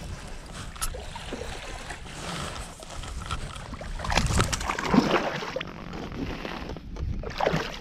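Wind buffeting the microphone over water lapping at a kayak, with a louder stretch of knocks and rustling about four to five seconds in.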